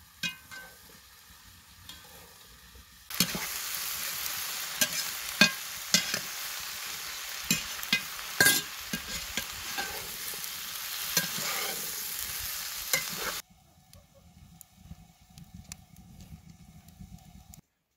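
Sliced onions frying in hot oil in an aluminium pot: a loud sizzle that starts suddenly about three seconds in, with the clatter of a metal slotted spoon stirring against the pot. The sizzle cuts off abruptly, and a wood fire crackles faintly after it.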